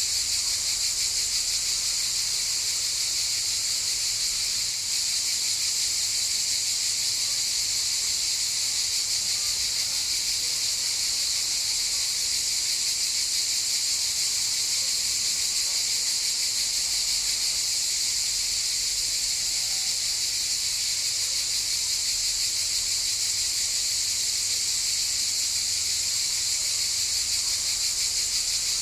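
Chorus of cicadas buzzing, a steady, continuous high-pitched drone.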